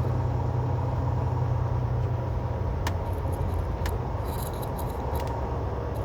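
Semi truck's diesel engine and drivetrain droning steadily, heard inside the cab with road noise, and a couple of sharp clicks about three and four seconds in.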